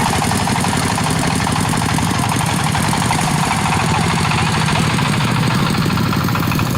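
An engine-driven machine running steadily at a constant speed, with a fast, even chugging rhythm.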